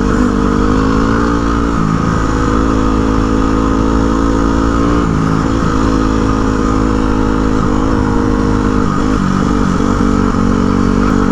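Yamaha WR dual-sport motorcycle's single-cylinder engine running at a steady trail pace, its pitch dipping and picking up again a few times as the throttle is eased and reopened, over a steady low wind rumble.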